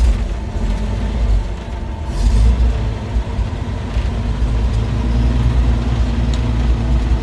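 REO US6 truck's Hercules JXD inline-six engine idling steadily with a low, even rumble, running on a freshly rebuilt Carter carburetor. There is a brief louder rush about two seconds in.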